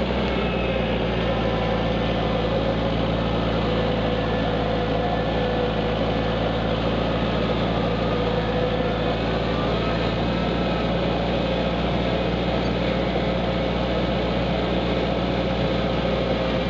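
Kubota tractor engine running steadily at an even speed while the tractor is driven.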